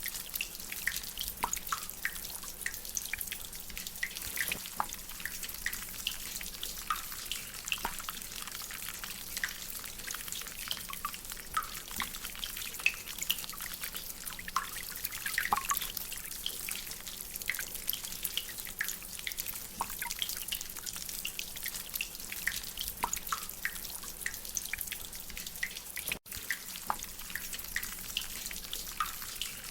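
Rainwater dripping from a drainpipe: many irregular drips over a steady hiss of rain, with a momentary break about 26 seconds in.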